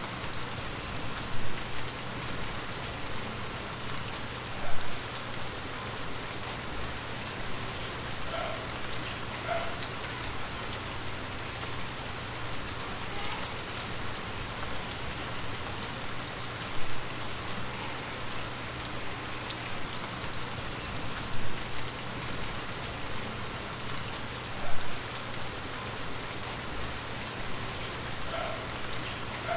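Steady rain falling, an even hiss, with a few louder drop hits standing out now and then.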